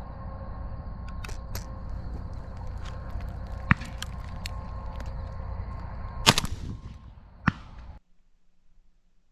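Shotgun shots in an open field, one loud crack about six seconds in and several fainter pops, over a steady low wind rumble on the microphone. The sound cuts off abruptly near the end.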